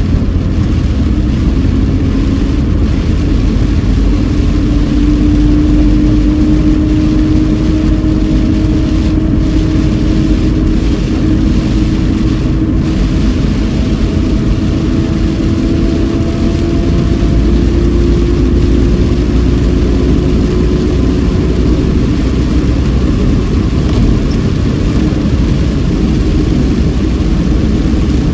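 Car interior noise while driving: steady engine and tyre-road rumble, with the engine note slowly rising in pitch over about twenty seconds as the car gathers speed.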